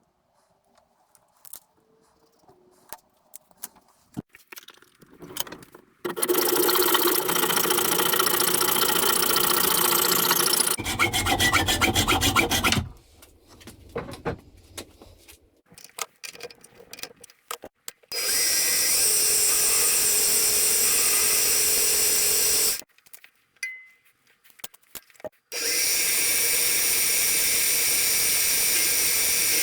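Mini lathe running and turning aluminium bar stock, heard in several separate stretches that start and stop abruptly, after a few seconds of quiet handling clicks. One stretch ends with the motor's pitch falling as it spins down.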